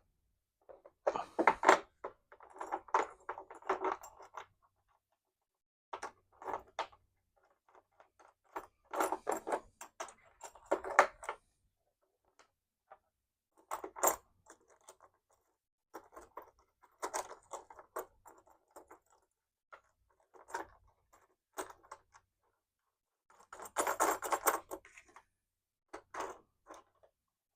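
Small metal hardware (D-rings, bolts and washers) being handled and fitted into a cargo tray's holes: irregular short bursts of clinks, rattles and knocks with quiet gaps between them.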